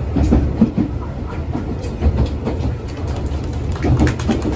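Electric train car running along the track, heard from inside the passenger cabin: a steady low rumble with irregular knocks from the wheels.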